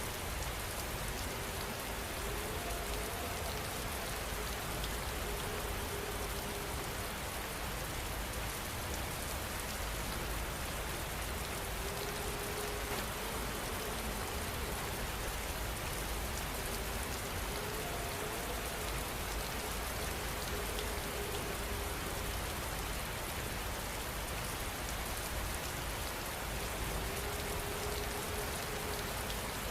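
Heavy rain falling steadily, an even dense hiss of drops with no let-up.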